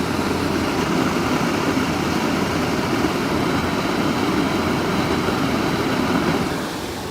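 Steady rushing air from a running heat pump air handler's blower, loud and even, easing off shortly before the end.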